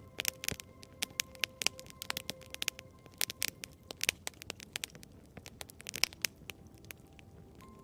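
Wood fire crackling and popping: irregular sharp snaps over a soft hiss. The last held note of a song fades out in the first few seconds, and the next piece of music begins right at the end.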